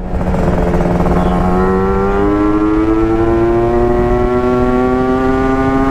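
Two-stroke motorcycle engine under load. The pitch drops at the start with a gear change, then climbs slowly and steadily as the bike gathers speed, with a step up about two seconds in.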